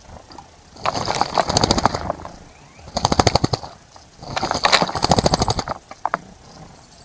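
A small bird bathing, beating its wings in the water of a bird bath in three rapid fluttering, splashing bouts, each a second or so long.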